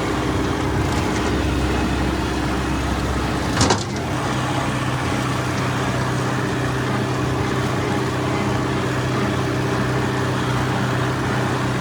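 Farm tractor engine running steadily while pulling a brush hog rotary mower. There is a short rattle about four seconds in, after which the deepest part of the rumble drops away.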